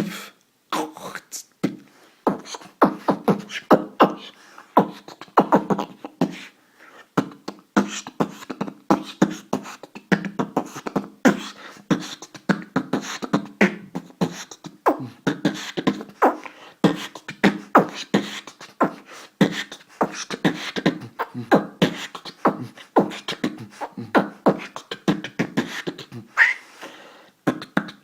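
Beatboxing: a fast, continuous run of mouth-made percussive clicks, pops and short voiced hits, with a brief pause near the end.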